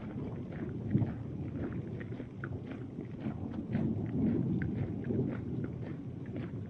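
Hail and rain falling: a steady rush with many small, irregular ticks of hailstones striking.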